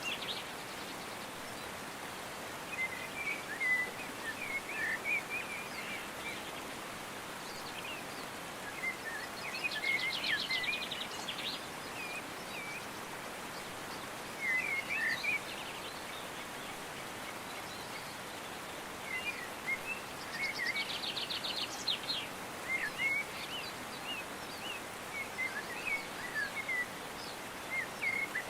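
Birds chirping in short bursts every few seconds, with a rapid high trill about ten seconds in and again about eleven seconds later, over a steady outdoor hiss.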